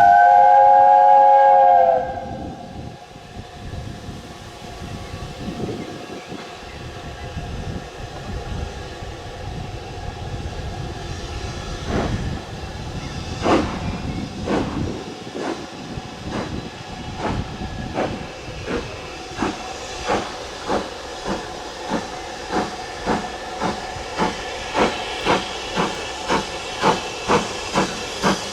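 Steam locomotive whistle, a chord held for about two seconds. After a pause the locomotive starts away, with steam hissing and exhaust beats that come gradually faster and louder.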